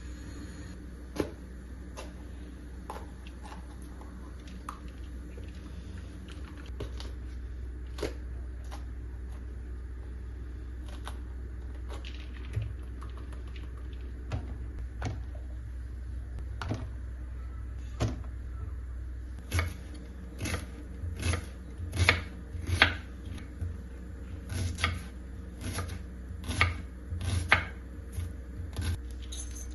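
Scattered light clicks and taps of household objects being handled, growing busier and louder about two-thirds of the way through, over a steady low hum.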